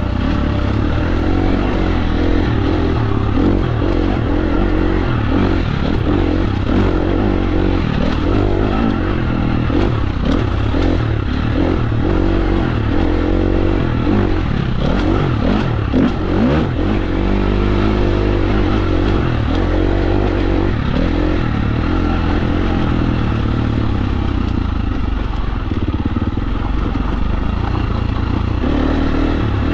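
KTM 350 SX-F's single-cylinder four-stroke engine running as the dirt bike is ridden along a trail, its pitch rising and falling with the throttle, with clatter from the bike over rough ground.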